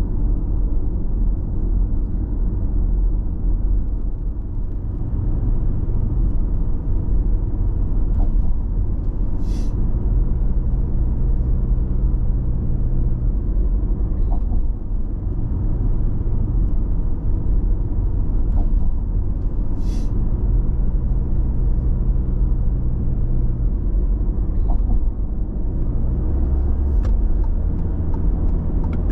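Car cabin road noise at steady expressway speed: a low, steady rumble of tyres and engine, with a low hum that swells and fades. Two brief faint clicks, about 10 and 20 seconds in.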